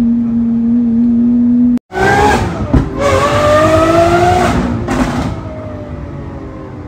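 Supercar engine held at steady revs, then after an abrupt cut a hard acceleration: the engine note climbs, dips once as it shifts and climbs again, then falls away and fades.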